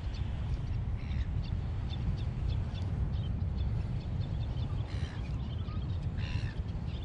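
Birds calling: a harsh, cawing call about a second in and two more near the end, with short high chirps in between. A steady low rumble runs underneath.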